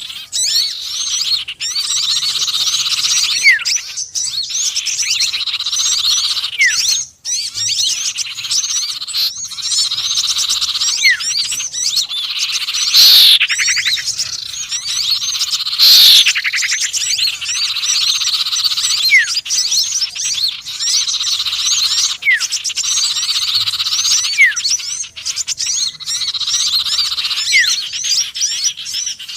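Mixed birdsong lure recording of sirtu, konin and sepah raja: a dense, continuous chatter of small-bird chirps and twitters, with a louder sweeping call and a short rising whistle coming around every few seconds in a repeating loop.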